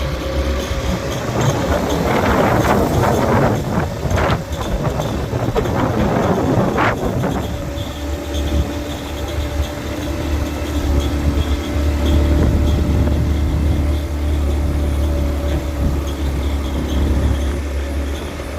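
Motorcycle engine running steadily under way, a low drone, with wind rushing over the microphone for the first several seconds.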